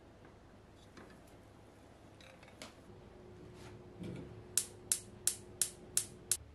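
A soft knock, then six sharp clicks in quick succession, about three a second, over a faint steady hum.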